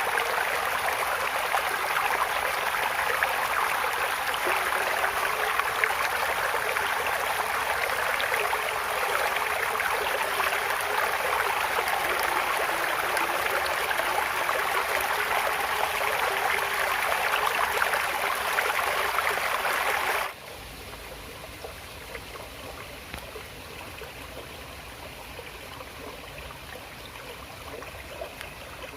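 Flowing stream water rushing steadily; about twenty seconds in it cuts off abruptly to a much quieter trickle.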